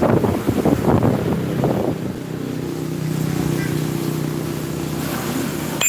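Gusty rumbling on the microphone, then from about two seconds in a steady low motor hum that runs until it cuts off abruptly.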